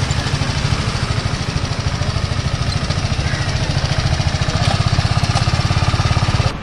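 Red sport motorcycle's engine running at low speed and idling close by as the bike pulls in and parks, with a fast, even pulse. The sound stops abruptly near the end.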